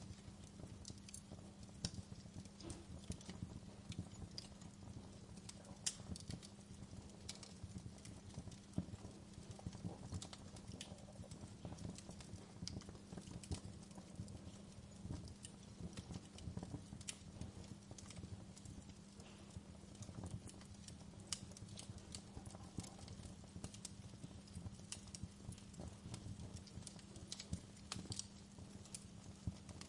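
Wood campfire burning, crackling with irregular sharp pops and snaps over a low steady rumble.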